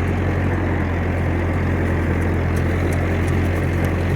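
1956 Massey Ferguson F40 tractor running steadily under load, driving a bush hog rotary cutter that is cutting through field growth.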